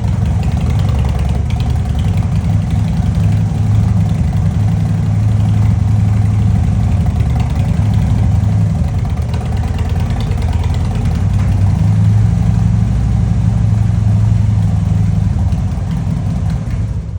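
Harley-Davidson motorcycle's V-twin engine idling steadily.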